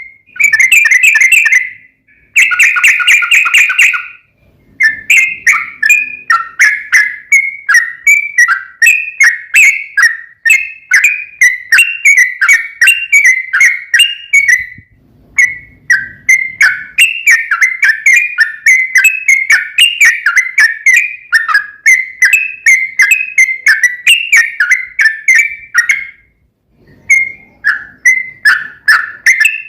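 Yellow-vented bulbul (trucukan) singing a long, continuous run of quick, bubbly notes, about three a second, broken by a few brief pauses.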